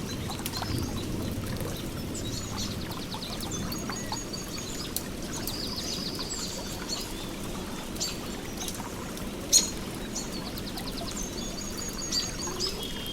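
Steady flowing water with songbirds calling over it in repeated high chirps and fast trills; one sharp click about two-thirds of the way through.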